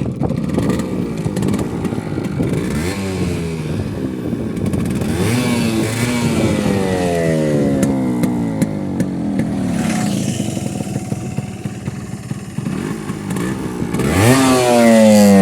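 A 1988 Yamaha RX100's two-stroke single-cylinder engine runs and is revved several times. Each rev climbs and then falls back, and the last, loudest rev comes near the end. The engine has been rebuilt with original parts.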